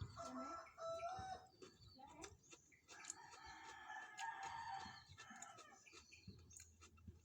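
Rooster crowing: a short call in the first second, then one long drawn-out crow from about three to five seconds in, with faint clicks around it.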